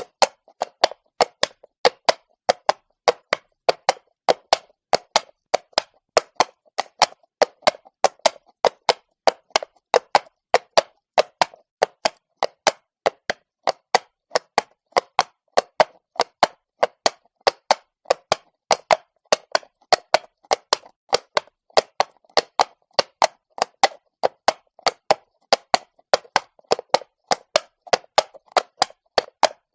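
Horse's hooves clopping on cobblestone at a walk: a steady run of sharp knocks, about three to four a second, in the uneven four-beat pattern of a walking horse.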